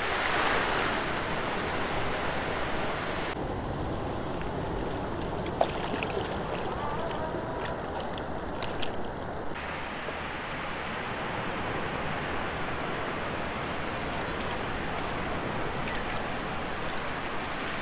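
Small breaking waves and shallow surf washing over a sandy beach: a steady rush of foaming water, slightly louder just after the start.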